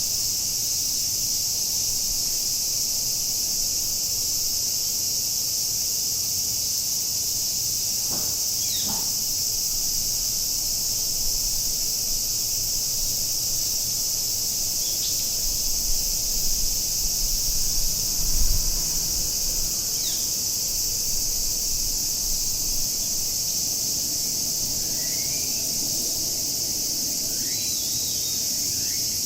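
A chorus of cicadas shrilling steadily, with a few short bird chirps scattered through it, more of them near the end. A low rumble rises briefly in the middle.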